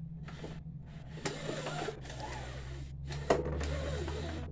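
Lawnmower engine's crankshaft being turned over at the blade bolt with the spark plug out, a check for a bent crank: scraping and handling noise over a steady low hum, with a sharp click a little past three seconds.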